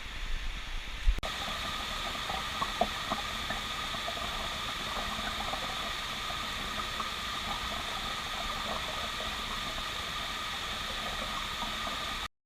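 Steady hiss of rushing river water, with a few small ticks. Low thumps come first, then the hiss starts abruptly about a second in and cuts off abruptly near the end.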